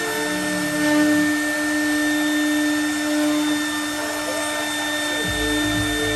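CNC milling router running while cutting aluminium composite panel: the spindle gives a steady multi-pitched whine over a constant hiss. About a second before the end, a low uneven rumble starts in under it.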